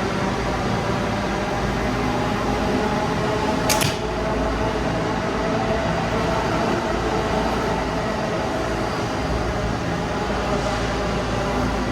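Steady rumble and hum of a subway station, with a single sharp click about four seconds in.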